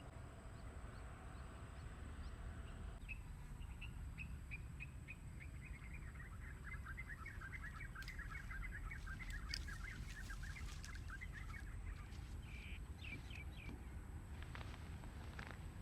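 A bird calling: a long run of rapid chirps that starts about three seconds in, drifts slightly lower in pitch and lasts around nine seconds, with a shorter burst of chirps a little later. A few sharp clicks fall among the chirps, over a low steady background noise.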